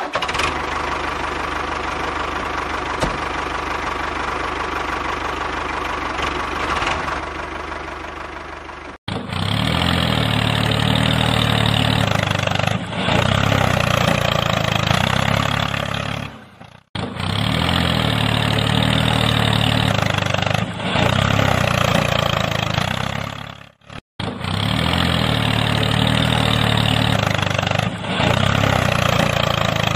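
An engine sound running steadily, laid down in near-identical stretches that cut off abruptly and restart about every seven seconds, like a looped sound clip. Before the first cut, about nine seconds in, there is a steadier, higher motor hum that fades slightly.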